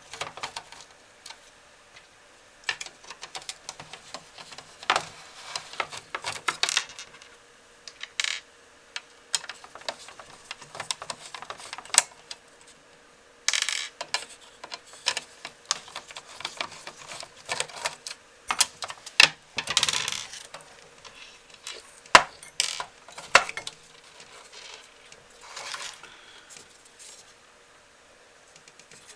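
Scattered clicks, clinks and short scrapes of small hard parts being handled while taking apart a PC power supply and its cooling fan, with a faint steady tone underneath.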